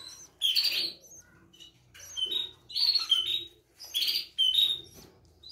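Small cage birds chirping: a run of short, high chirps, about five, each a fraction of a second long and spaced roughly a second apart.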